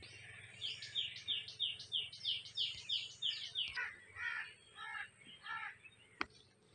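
A songbird singing a fast run of repeated falling chirps, about five a second, followed by four slower, lower notes. A single sharp click near the end.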